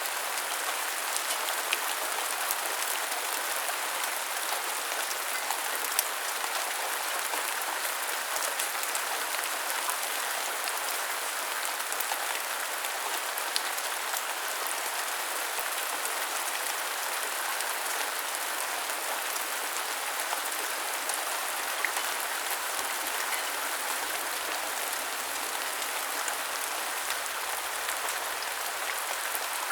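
Steady rain falling, a continuous hiss with many small sharp drop taps throughout.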